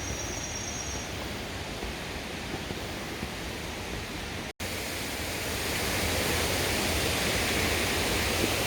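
Mountain valley stream, water running with a steady rush. After a brief cut about halfway, it comes back louder and fuller.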